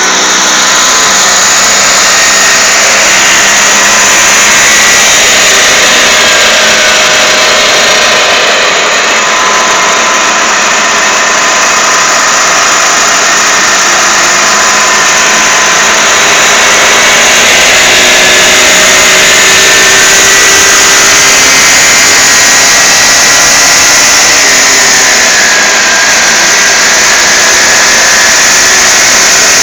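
Motorcycle running on a roller test bed: a loud, steady mechanical whine whose pitch drifts slowly up and down as the speed changes.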